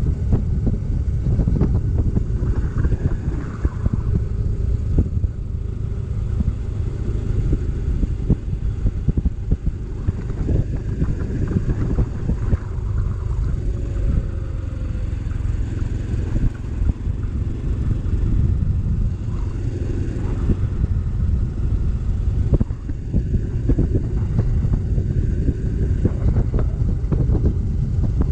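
Motorcycle riding along the road: a steady low rumble of the engine and road noise, with wind buffeting the microphone.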